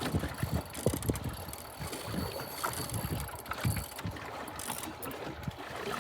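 Wind buffeting the microphone on a small fishing boat, with irregular low rumbles and thumps over a steady hiss.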